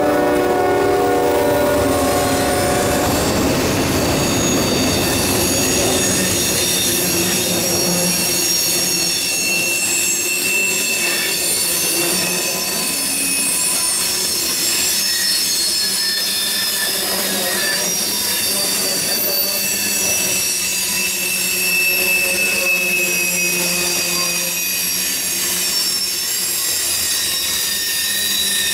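Norfolk Southern freight train passing close by: the last of its GE and EMD diesel locomotives go by in the first few seconds, then a long string of covered hopper cars rolls past. The car wheels squeal steadily on the curve, with a high ringing over the rumble of the wheels.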